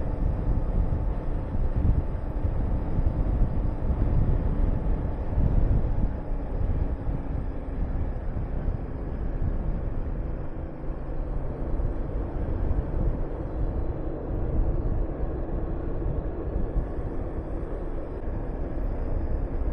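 Honda VTR250's V-twin engine running under way, mixed with heavy wind buffeting on the camera microphone.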